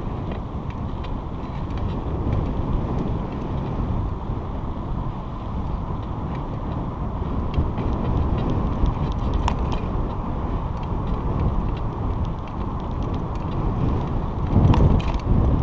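Wind buffeting the microphone of a bicycle-mounted camera while riding on a trail, mixed with tyre and bike noise and a few faint clicks. A louder gust comes about a second before the end.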